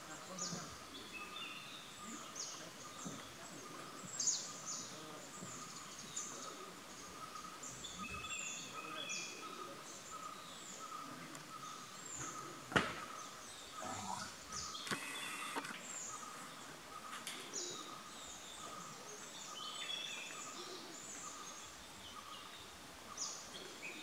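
Forest ambience of many short, high bird calls, each sliding down in pitch, repeated every second or so over a steady faint tone. A single sharp click comes a little after halfway.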